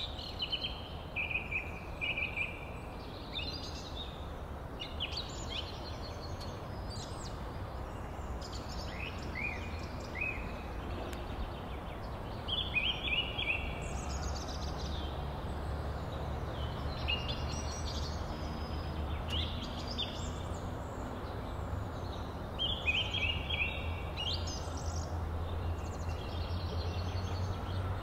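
Birds chirping, short calls repeated in clusters again and again, over a steady low outdoor background noise.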